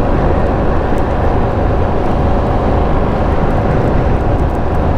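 Ducati Streetfighter V2s V-twin motorcycle running steadily at riding speed, its engine sound mixed with a steady rush of wind and road noise.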